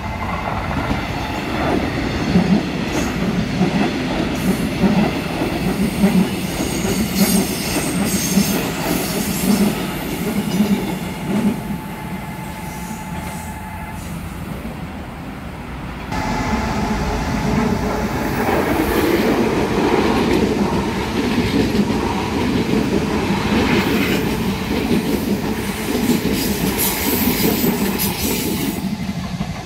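Electric trains passing close by: first a Korail metro commuter train clattering over the rail joints with a rhythmic clack. About halfway through, an ITX-Cheongchun intercity train approaches and rolls through the level crossing, its wheels rumbling, while the crossing's warning bell rings.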